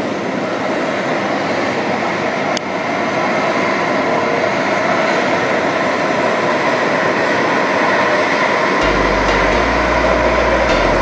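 Jet airliner engines running, a steady roar with a thin whine in it that slowly grows louder.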